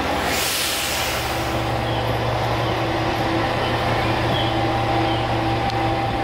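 Diesel railcar running with a steady engine hum, and a short burst of hissing air in the first second or so.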